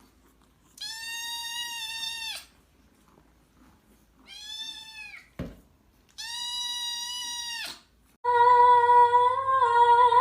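A cat meowing three times, each a long drawn-out meow of about a second and a half. About eight seconds in, a louder, steady droning sound with a low hum starts.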